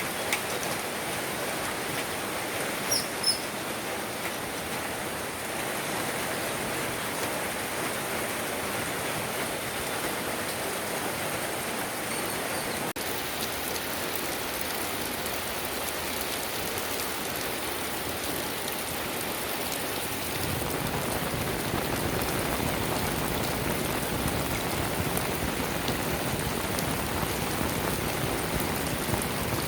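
Steady rain falling, an even hiss of drops with two brief high chirps about three seconds in. The rain grows louder and fuller about two-thirds of the way through.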